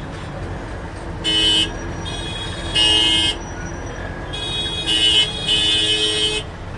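A vehicle horn tooting: two short toots about a second and a half apart, then a longer run of toots lasting about two seconds, over a steady low rumble.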